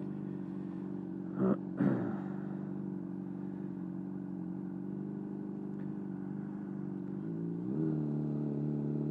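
Honda CBR600RR inline-four engine running at steady low revs, picked up by an external microphone inside the helmet, with the revs rising about three quarters of the way through. Two short, loud sounds that sweep in pitch come about a second and a half in, close together.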